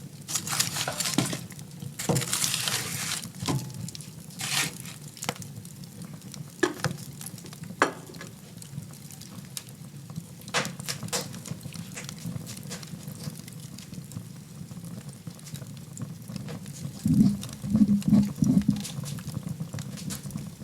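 Wood fire burning in a fireplace: a steady low rumble under sharp crackles and pops, densest in the first few seconds and sparser afterwards. Near the end comes a short run of low, louder pulses.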